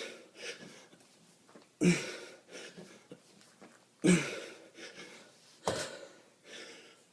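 A person breathing hard during kettlebell exercise: three sharp, forceful exhales about two seconds apart, with quieter panting between them.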